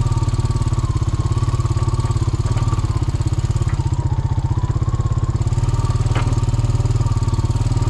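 Vehicle engine running steadily, a low drone with a rapid, even pulse and a faint wavering whine above it.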